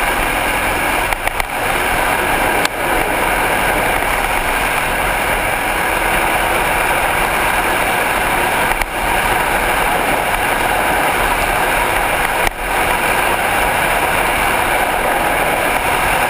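Dirt bike engine running on steady throttle, mixed with heavy wind rush on a helmet-mounted camera; the sound dips briefly a few times.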